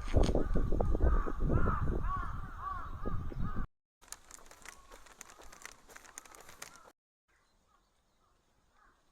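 Birds calling over and over in short arched calls, over a loud low rumble, for the first few seconds. The sound then cuts out abruptly, gives way to a quieter patch of faint clicks, cuts again, and faint bird calls come back near the end.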